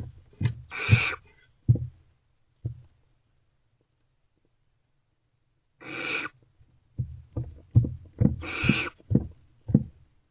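Barn owls in a nest box giving three harsh hissing calls, about a second in, six seconds in and near the end. Short knocks and scuffs of the birds moving on the box floor come in between, thickest in the last few seconds.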